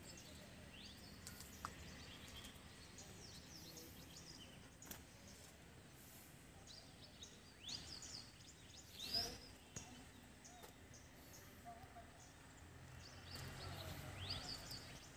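Quiet outdoor ambience with small birds chirping on and off, short quick calls scattered throughout, one call louder than the rest about nine seconds in.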